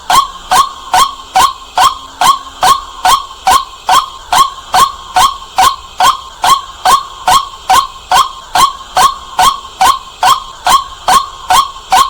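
White-breasted waterhen calling at night: a loud, evenly repeated 'kwak' note, about three calls a second.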